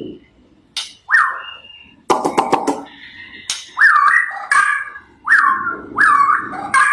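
A starling (jalak) calling: a string of short swooping whistled notes with sharp clicks, and a burst of rapid clicking chatter about two seconds in.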